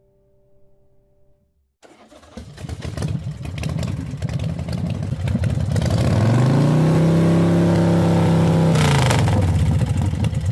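KTM 790 Adventure's parallel-twin engine coming to life about two seconds in, then revved: the pitch climbs, holds high for about three seconds, and drops back near the end.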